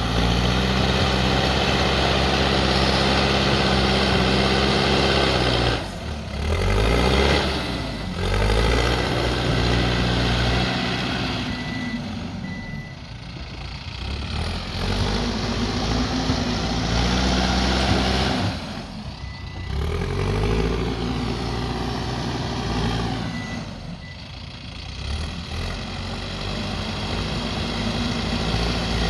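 Backhoe loader's diesel engine working under load. It revs high, drops back sharply and then climbs again, about four times, as the machine digs and pushes dirt.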